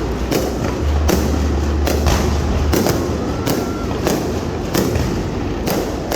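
Aerial fireworks exploding in quick succession, one or two bangs a second over a continuous low rumble, with a short rising whistle about halfway through.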